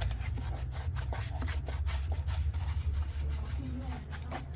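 Rapid, irregular scraping and rubbing, several strokes a second, over a steady low hum.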